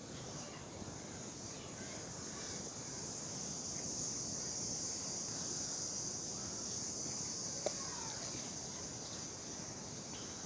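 Outdoor ambience: a steady high-pitched drone that swells a little in the middle, with a single sharp click about three-quarters of the way through.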